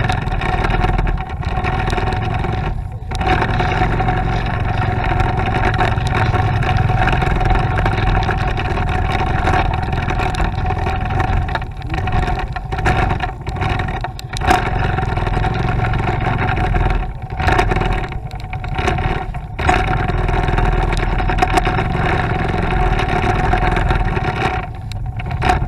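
Motorcycle running along the road, a steady engine and road noise with one sustained tone through it; the sound dips briefly several times, at about 3, 12, 14, 17, 19 and 25 seconds.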